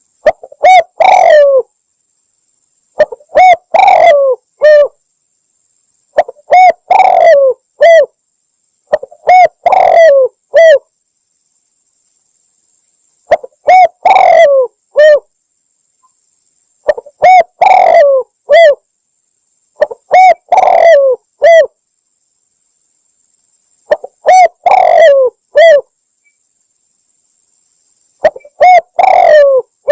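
Spotted dove (tekukur) cooing, played as a hunting lure call: loud phrases of three or four coos, repeated about every three seconds with short silences between.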